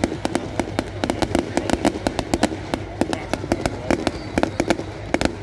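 Fireworks going off in a dense barrage of sharp cracks and pops, several a second, crackling on without a break.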